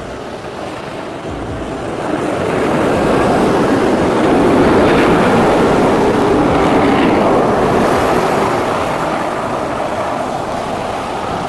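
Rushing noise of a large vehicle passing close by, swelling over a couple of seconds, peaking midway and then slowly fading.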